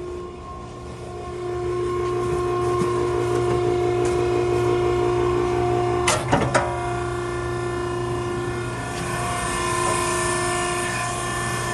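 Maren cardboard baler's hydraulic power unit running steadily through a crush cycle, a hum with several held tones. A few sharp knocks come about six seconds in, and a hiss rises near the end.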